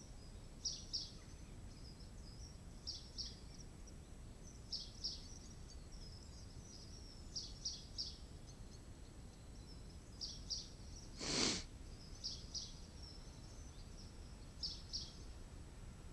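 A bird singing a short, high two- or three-note phrase about every two seconds over low background noise, with one brief loud whoosh about eleven seconds in.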